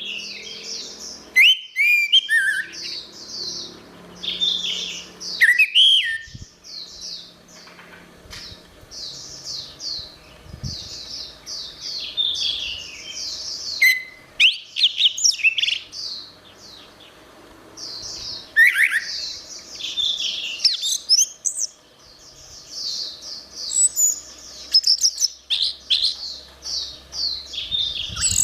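Orange-headed thrush singing: a long run of rapid, varied whistled phrases broken by brief pauses.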